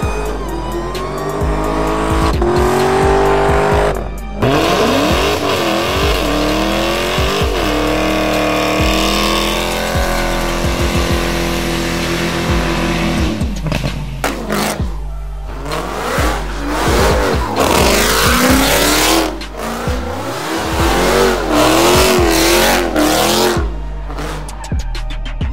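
Dodge Challenger and Charger Hemi V8 engines revving hard through burnouts and donuts, the pitch sweeping up and down while the rear tires squeal and spin. Background music with a heavy bass beat runs under the cars.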